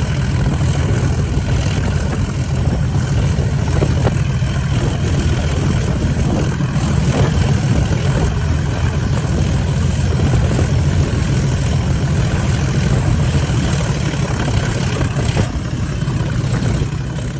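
Diesel locomotive engine running steadily, a deep, even low drone.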